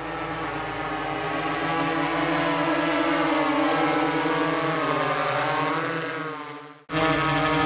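Radio-controlled crop-spraying helicopter running steadily in a hover, a several-toned whine that wavers slightly in pitch midway. It drops out abruptly near the end and comes straight back.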